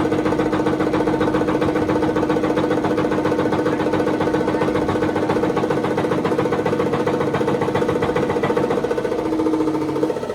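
Tractor engine running steadily at idle with a rapid, even firing beat; its note shifts shortly before the end.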